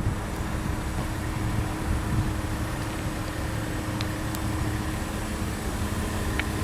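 A Volkswagen Touareg's 3.2-litre V6 idling steadily, a low even rumble with a faint steady hum, heard from outside the car.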